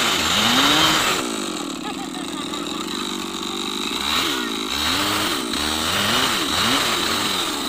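Chainsaw cutting wood, its engine pitch rising and falling several times as it is revved, with a steadier stretch in between.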